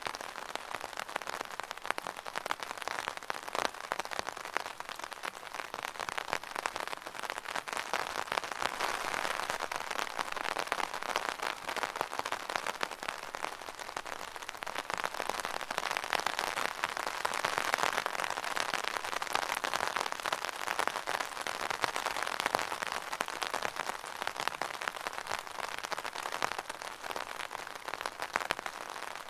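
Rain falling on an umbrella: a dense, steady patter of countless drops on the canopy, swelling slightly twice.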